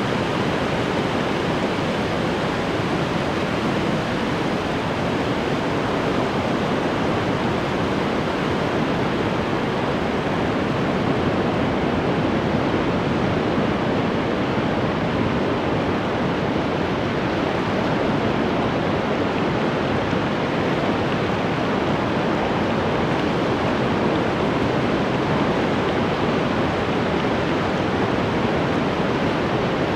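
Ocean waves breaking and washing onto the shore in a steady, continuous rush, with only slight swells in level.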